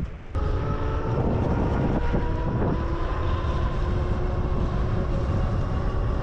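Wind buffeting the microphone while riding a pedal-assist e-bike, a heavy steady rumble with a thin steady whine over it. The sound drops out briefly at the very start, then comes back.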